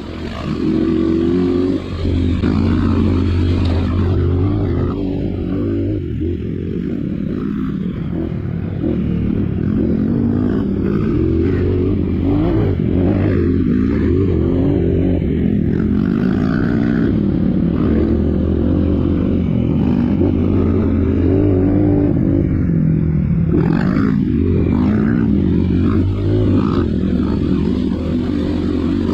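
Dirt bike engine running continuously, its revs rising and falling as it is ridden.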